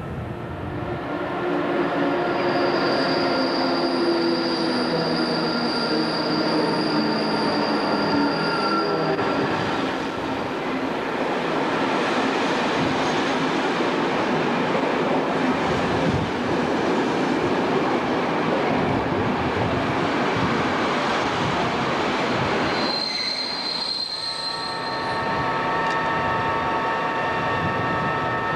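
A passenger train of coaches running along the platform: a high, steady wheel or brake squeal and slowly falling tones for the first several seconds, then the even rumble and clatter of the coaches rolling past. After an abrupt cut near the end, a DR class 132 'Ludmilla' diesel locomotive takes over with a steady hum of several held tones.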